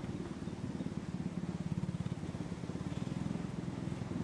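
Motor vehicle engine running steadily, a low, fast, even firing pulse.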